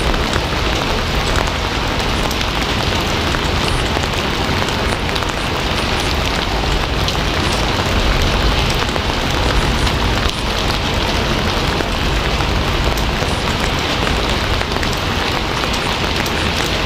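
Steady heavy rain: a dense, even hiss with faint scattered drop ticks and a low rumble underneath.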